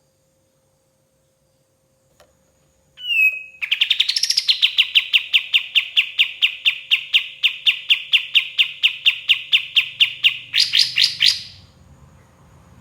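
Kapas tembak songbird singing: a short whistled note, then a long, fast, even trill of sharp repeated notes at several a second, closing with a few louder, higher notes.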